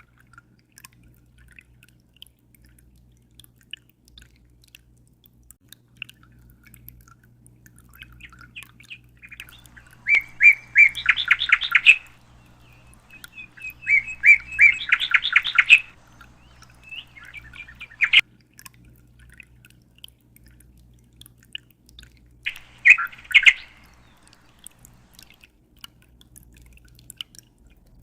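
A small bird singing in four short bursts of rapid trilled chirps, the first two the longest, over a low steady hum and faint scattered drips of water.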